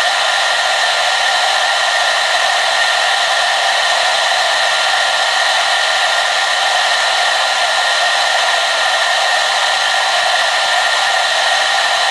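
Hand-held hair dryer running steadily: an even, unchanging rush of blown air with a faint steady whine from its motor.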